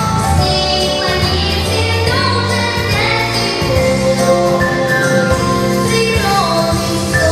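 A solo voice singing a song over continuous instrumental accompaniment.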